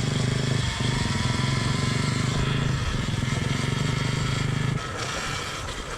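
Alta electric dirt bike under way: a steady low drone with a higher whine above it. The low drone drops away about five seconds in.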